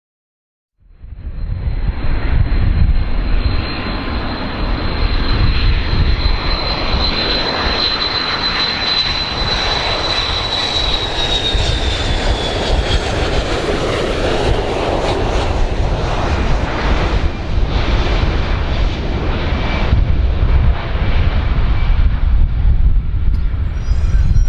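Airplane jet engines running loud after about a second of silence: a heavy low rumble and roar under a high whine that drops in pitch a little past halfway.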